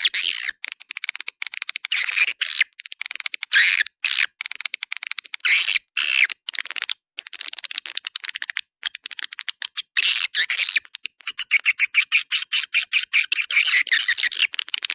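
Recorded swiftlet calls used to lure swiftlets to nest houses: bursts of rapid twittering chirps and fast clicking trills with short gaps between them, turning into a long fast clicking run near the end.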